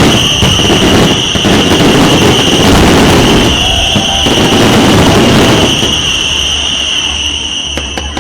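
A loud, dense fireworks barrage overhead: continuous bursts and crackling, with a steady high whistling tone held above it. Near the end the barrage thins to separate sharp cracks.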